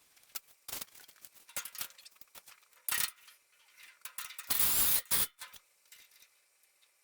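Workshop handling sounds: scattered light clicks, clinks and scrapes of tools and parts, with a short harsh burst of noise about three seconds in and a louder one, under a second long, about four and a half seconds in.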